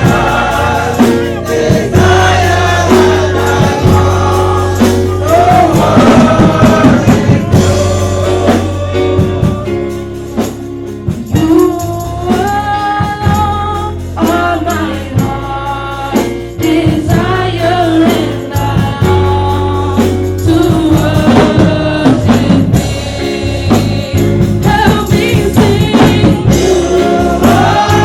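Gospel choir singing with a band: steady bass notes, drums and possibly tambourine under the voices.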